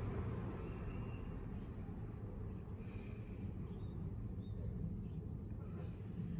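A bird chirping over a steady low outdoor background rumble: short high notes, three near the start and then a quicker run of about three a second in the second half.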